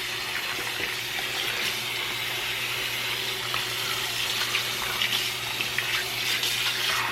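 Water running steadily from a sink tap while hands are rinsed under it.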